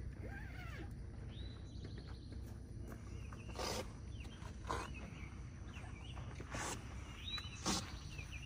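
Outdoor ambience of birds calling in short whistled notes that slide up and down, over a low steady rumble, with four sharp clicks or knocks in the second half.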